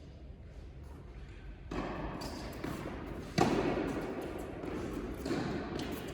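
Tennis ball being struck and bouncing on an indoor court, with one sharp hit about halfway through and a softer knock near the end, each ringing briefly in the hall.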